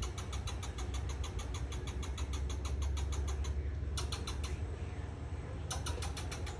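Squirrel chattering a scolding alarm call: rapid repeated sharp chirps at about seven a second, breaking off twice and resuming, over a steady low rumble.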